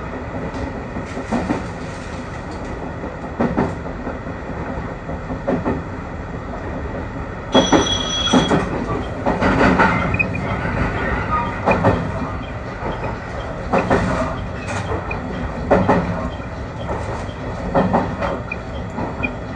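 JR Kyushu YC1 hybrid diesel railcar running, heard from inside the car: a steady rumble with the wheels clacking over rail joints about every two seconds, and a brief high-pitched squeal about eight seconds in.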